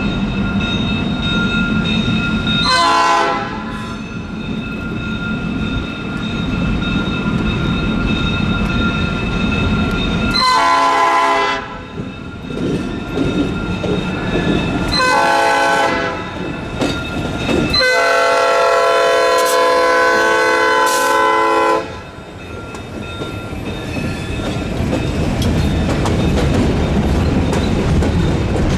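A GP38-2 diesel locomotive horn sounding four blasts, the last held for about four seconds, over the steady rumble of the passing freight train with wheels clacking over rail joints.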